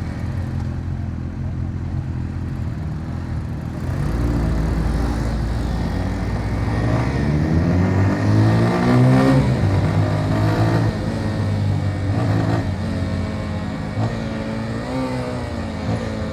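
Motorcycle engine running while riding, growing louder about four seconds in and rising in pitch as it accelerates between about six and nine seconds, then changing pitch a few more times with speed.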